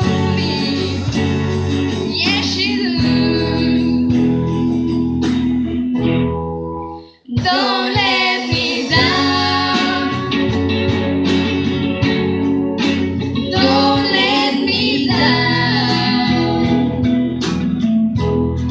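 Live acoustic band performance: acoustic guitar with singing. The music stops abruptly about seven seconds in, then comes back in.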